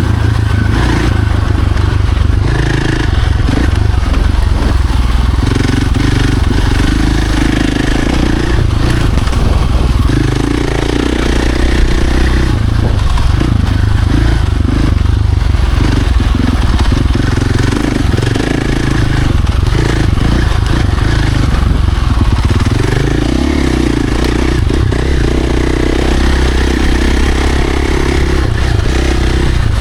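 Dirt bike engine running hard on a trail ride, its pitch rising and falling continuously with the throttle, with rattling from the bike over rough ground.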